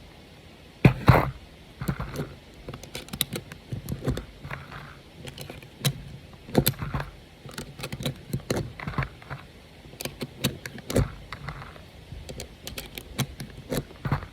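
Irregular clicking and clacking as 9mm rounds are pushed one by one into a Glock magazine with an UpLULA loader, the rounds and loader knocking against the magazine. A few louder knocks stand out, the loudest about a second in.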